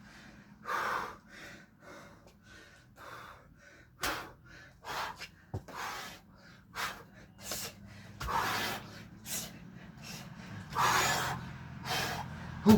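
A man breathing hard and gasping in short bursts while doing burpees, with a few soft thumps in between.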